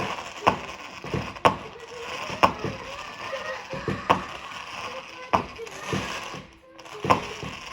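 Fireworks going off close by: a run of sharp bangs, about one a second with a longer gap in the middle, and crackling between them.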